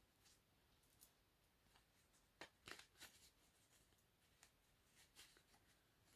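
Faint shuffling and handling of a tarot card deck: scattered soft flicks and swishes of cards, the loudest cluster about two and a half seconds in.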